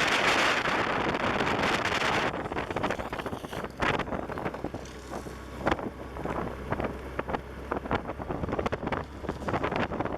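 Wind rushing and buffeting against the microphone of a moving motorcycle. The rush is heavy for the first two seconds or so, then drops to a lighter, gusty buffeting.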